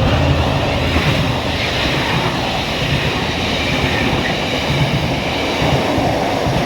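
A train running along the track close by: a steady, loud rumble of wheels on rails.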